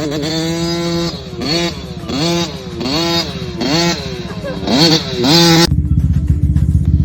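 Cobra 50 Jr 50cc two-stroke kids' dirt bike engine revving up and falling back about six times in quick succession as the throttle is worked. Near the end it changes abruptly to a steady low rumble.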